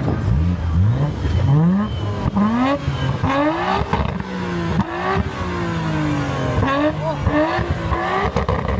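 Car engine being revved: several quick rising blips in the first three seconds or so, then held at high revs with the pitch rising and falling.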